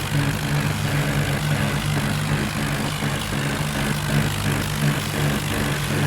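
Tractor diesel engine running steadily, its pitch holding constant with no revving.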